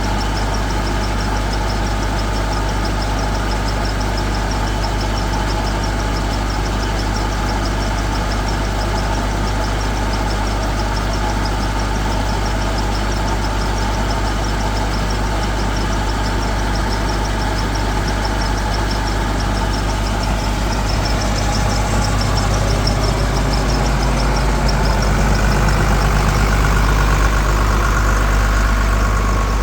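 Engine-driven irrigation water pump running steadily, a continuous engine drone that grows somewhat louder about two-thirds of the way through.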